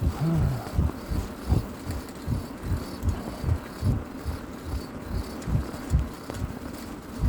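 Wind buffeting the microphone of a moving bicycle: uneven low thumps, about three a second, over a faint rush.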